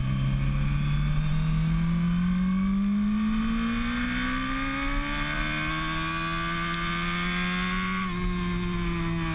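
Motorcycle engine under hard acceleration, its pitch climbing smoothly and steadily for about eight seconds, then dipping and falling slightly near the end as the throttle eases.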